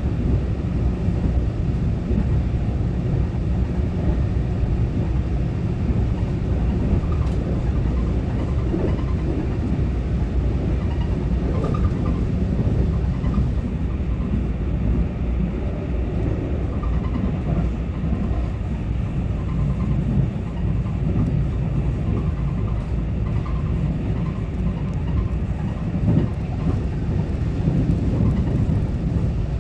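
Taiwan Railway EMU900-series electric multiple unit (EMU923) running at speed, heard from inside the car: a steady low rumble of wheels and running gear on the rails.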